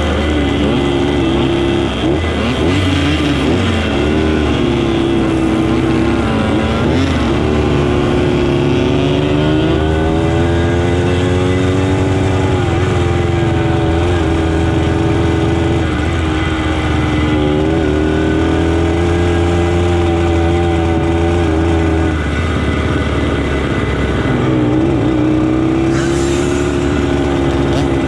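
Motorcycle engine running on the move, its revs rising and falling again and again as it speeds up and eases off, over a steady low rumble.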